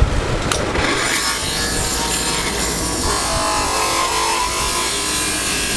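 A power tool cutting into a turning wooden block: a click about half a second in, then a steady grinding, rasping run of wood being cut.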